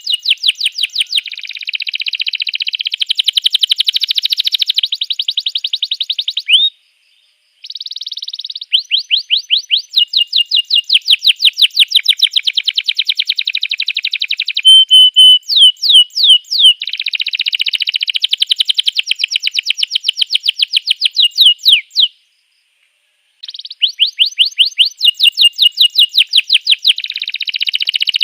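Domestic canary singing a long song of fast rolling trills, each a quick run of repeated high notes, with a few sweeping whistles. The song breaks off for a moment about seven seconds in and again about twenty-two seconds in.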